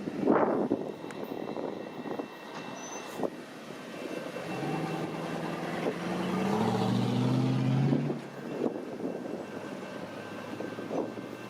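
An engine's hum, over wind noise, climbs in pitch for a few seconds in the middle and then drops away. A few short knocks come early on.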